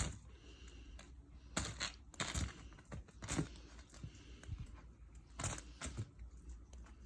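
Footsteps crunching through ice-crusted snow left by freezing rain: a string of separate crunches at irregular intervals.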